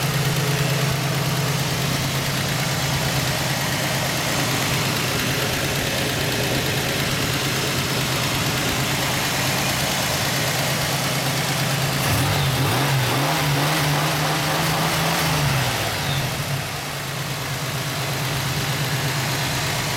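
Rebuilt Chevrolet 4.3-litre V6 idling steadily, then revved up and down several times from about twelve seconds in before settling back to idle.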